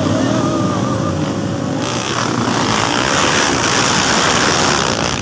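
Motocross dirt bike engines running at high revs: a single wavering engine note for the first two seconds gives way to a louder, rougher rush of engine noise.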